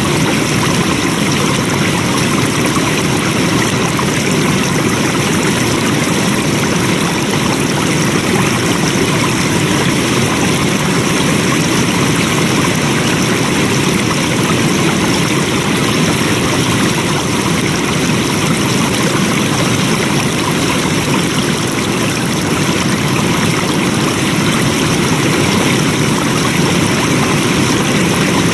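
Flowing water running steadily: an even, unbroken rush with no pauses or changes.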